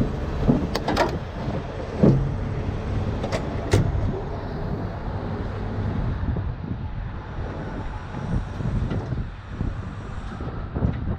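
Steady low rumble of an idling heavy vehicle, with several sharp clanks in the first four seconds.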